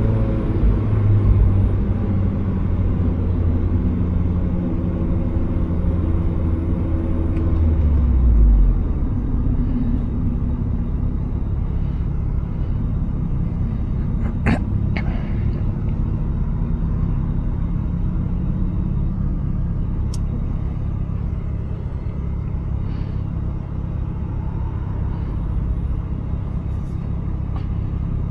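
Turbocharged Mazda Miata's four-cylinder engine and road rumble while driving. The engine note is strong for the first eight seconds or so, then drops away to a lower steady drone. Two sharp clicks come about halfway through.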